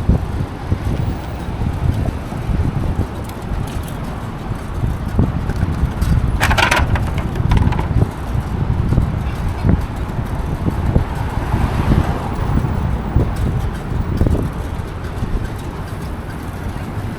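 Wind buffeting the microphone during a bicycle ride through city traffic, a steady low rumble, with a brief hiss about six and a half seconds in.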